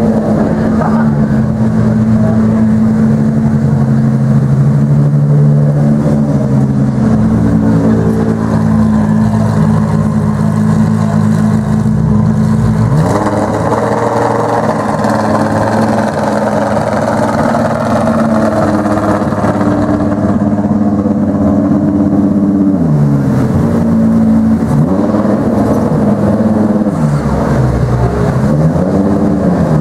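Ferrari 599XX's V12 engine running at low speed and holding steady revs. About halfway the revs step up, and near the end they rise and fall two or three times in short blips of the throttle.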